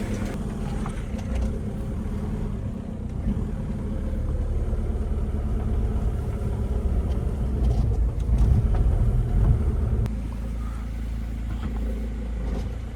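Car engine running steadily with a low rumble, which grows louder for a couple of seconds about eight seconds in and then settles.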